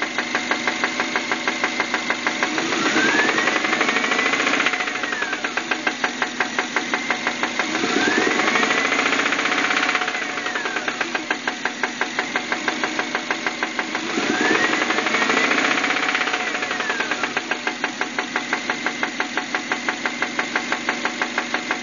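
1999 Subaru Outback's 2.5L DOHC flat-four engine running with a steady, rapid knock, revved up and let fall back three times. The owner takes the knock for rod knock.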